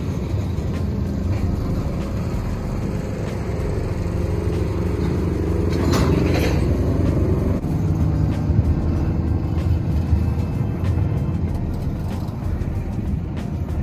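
Freight train cars rolling past: a steady low rumble on the rails with scattered sharp clicks, briefly louder and harsher about six seconds in.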